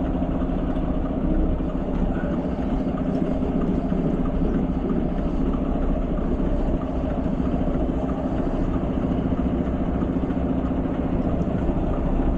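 Mack semi truck's diesel engine running steadily, an even low hum with no change in speed.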